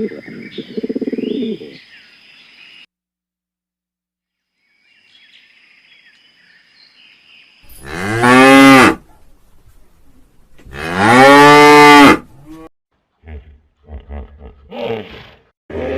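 Cow mooing: two long, loud moos a couple of seconds apart, each rising then falling in pitch, then a few short calls near the end. Birds chirp faintly in the first half.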